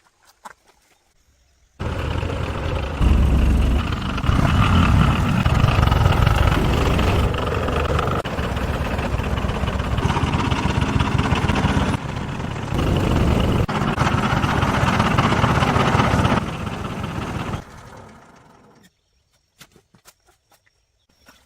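An engine running steadily, starting abruptly about two seconds in and stopping near the end.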